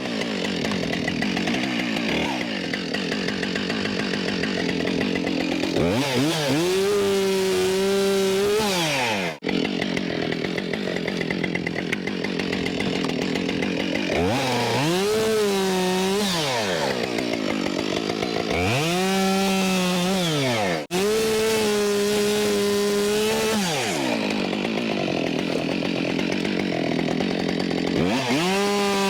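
Husqvarna 572XP two-stroke chainsaw cutting through small trees, revving up to a high, held full-throttle pitch and falling back about five times.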